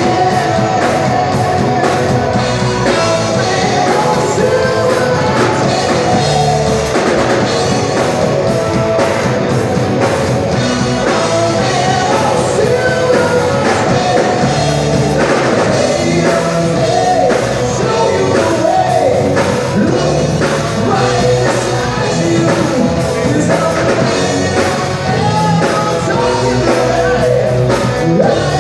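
Rock band playing with a singer: loud, steady rock music with drums and sung vocals.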